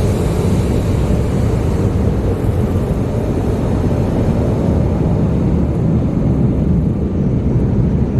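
Car wash tunnel's Aero-Dry blower dryers blowing air over the car, a loud steady rush of air heard from inside the car. The high hiss thins out over the last few seconds as the car moves away from the blowers.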